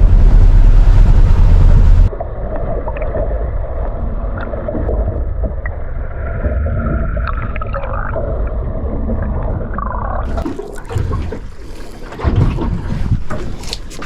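Wind rumbling on the microphone on a boat for about two seconds, then an abrupt change to a muffled stretch of water sloshing and gurgling. Sharper water and boat noises with scattered knocks return near the end.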